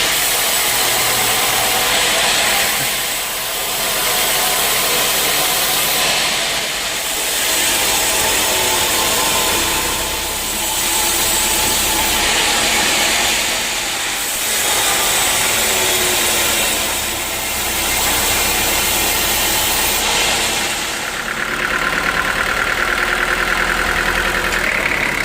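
Sawmill running: an engine and a saw cutting teak wood. The loud, dense noise dips briefly about every three and a half seconds, and a little past twenty seconds a higher, steady whine comes in.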